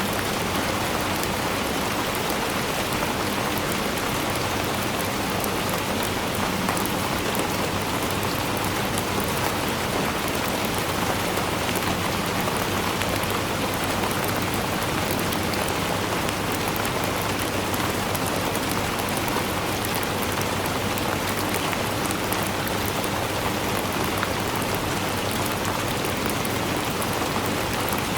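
Steady rainfall, an even hiss of many drops falling on a surface, with no let-up or change.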